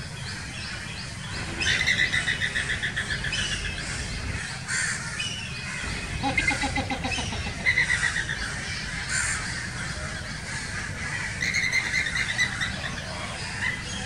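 Greater flamingo calling: several bursts of rapid, harsh chattering calls, with a lower grunting call in the middle, over a steady low rumble.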